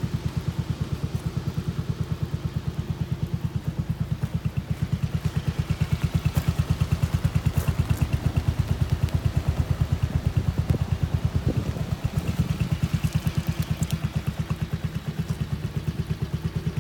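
Yamaha Majesty 250 (4HC) scooter's single-cylinder four-stroke engine idling, an even rapid putter of exhaust pulses; it runs a little louder for a few seconds midway.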